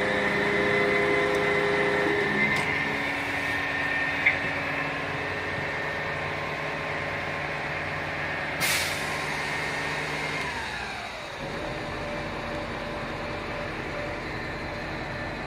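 Fire truck running with a steady engine drone, a short air hiss about nine seconds in, and a sound falling in pitch a little later as the engine note drops to a lower steady hum.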